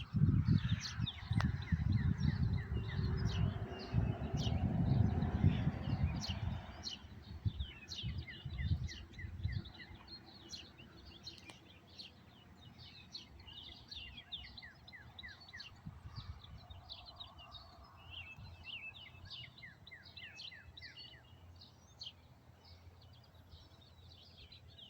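A chorus of songbirds singing in the evening: many short chirps overlapping, with a few quick runs of repeated notes. A low rumble fills the first several seconds and fades out around seven seconds in, leaving the birds over a faint background.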